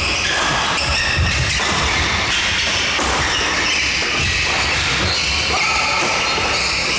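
Badminton play in a large hall: rackets striking the shuttlecock and players' feet thudding on the court, over a busy, echoing hall background with distant voices.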